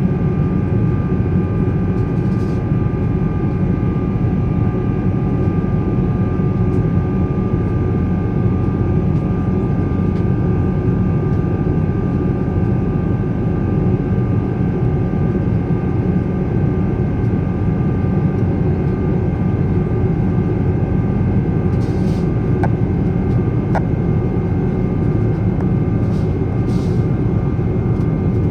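Boeing 777-300 cabin noise from inside the aircraft: a steady, loud rush of the Rolls-Royce Trent 800 engines and airflow, with several steady whining tones above it. A few faint clicks sound near the end.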